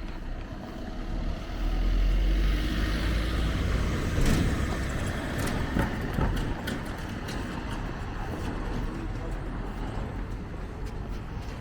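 A motor vehicle, most likely a car, passing close by: a rumble that swells over the first couple of seconds, stays loud for a few seconds and then fades, with a few sharp clicks or knocks in the middle.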